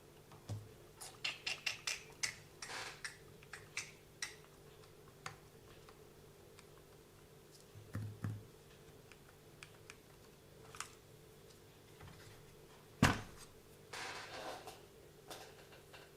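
Small clicks, taps and scrapes from handling the plastic and metal parts of a WLtoys 144001 RC car's drivetrain by hand: a quick run of clicks early on, a couple of dull thumps, and one sharp knock about thirteen seconds in followed by a short rustling scrape.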